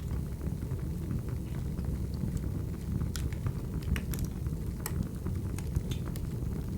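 Wood fire crackling: a steady low rumble of flames with sharp pops and snaps scattered through it, a cluster of them between about three and five seconds in.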